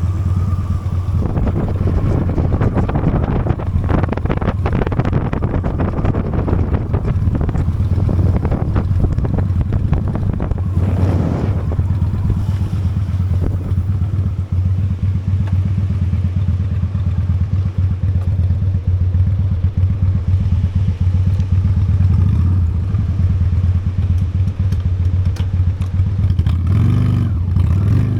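Honda Steed V-twin motorcycle engine running at a steady pace while riding, its low exhaust note even throughout.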